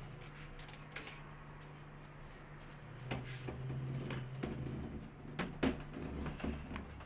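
A low steady hum, with a run of knocks and clatters starting about three seconds in, two of them sharper and louder near the middle.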